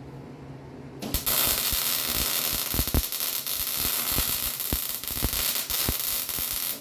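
Electric arc welder laying a bead: a steady, loud crackling sizzle with frequent sharp pops. It starts about a second in and cuts off suddenly as the arc is broken.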